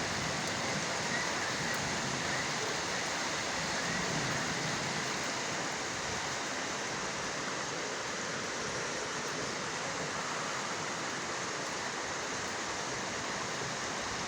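Storm runoff rushing along a street in a fast, strong current like a flowing torrent, with heavy rain falling. It is a steady rushing noise that does not let up.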